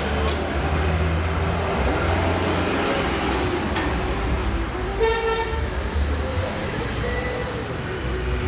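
Engine running steadily, with a short horn toot about five seconds in.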